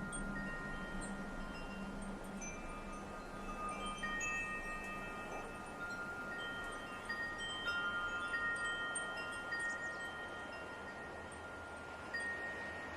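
Wind chimes ringing: several long, sustained tones struck at irregular moments and overlapping one another, over a soft steady hiss of light wind.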